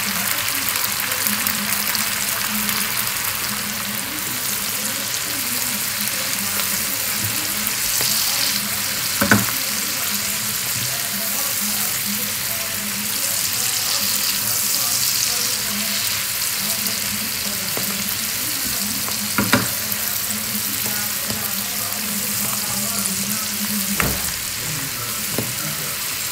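Spinach leaves and stems frying in a non-stick pan, a steady sizzle, while a spatula stirs them, with three sharp knocks against the pan.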